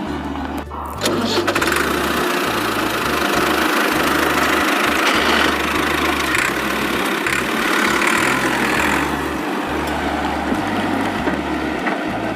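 Tractor engine running steadily after picking up about a second in.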